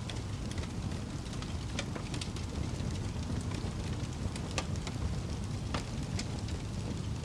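Wood fire burning with a steady low rumble of flame, broken by irregular sharp pops and snaps.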